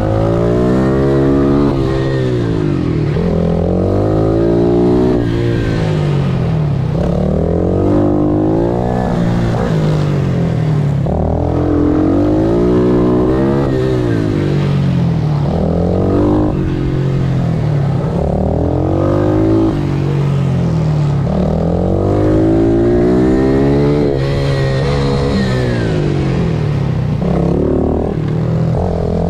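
Pit bike engine racing, its pitch climbing and falling again and again every couple of seconds as the rider accelerates, shifts and brakes around the track.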